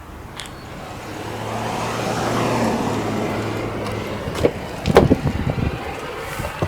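A vehicle's engine noise swells and fades, as of a car going by, followed by a few sharp knocks about two-thirds of the way through.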